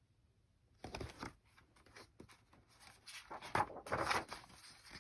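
Rustling handling noise in two bursts, about a second in and again around three and a half to four seconds in, with small clicks between them.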